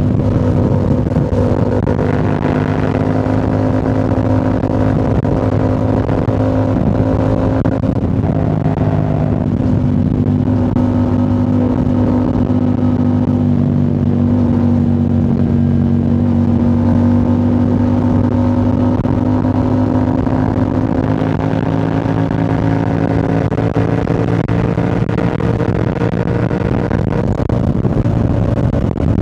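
2025 Yamaha R7's 689 cc parallel-twin engine through a Yoshimura AT2 full exhaust, running steadily at cruising revs, its pitch easing down and back up a little over the stretch, with a low rushing noise beneath.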